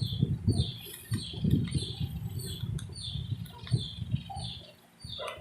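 Pet chick peeping over and over: short, falling high chirps, two or three a second, with low thumps and rustling underneath.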